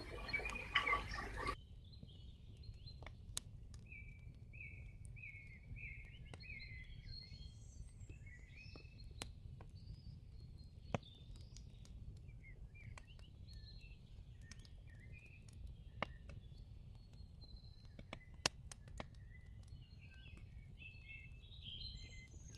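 Faint birds chirping in the background, with a run of about six short repeated notes about four seconds in and scattered calls after, along with occasional faint clicks. A short louder noise at the start cuts off abruptly about a second and a half in.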